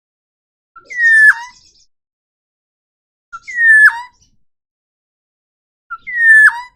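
Forest oriole (kepodang hutan) calling: three alike whistled calls about two and a half seconds apart. Each is a short pip followed by a downward-sliding whistle that drops sharply at the end.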